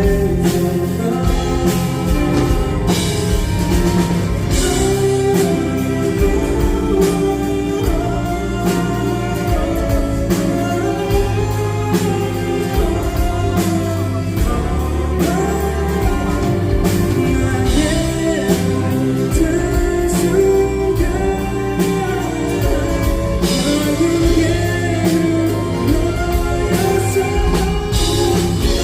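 Live band playing a pop song with a male lead vocal over guitar and drums, at a steady, full level.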